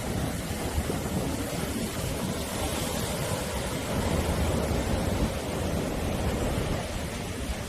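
Sea waves breaking and washing on the shore in a steady rush, swelling a little about halfway through, with wind buffeting the microphone.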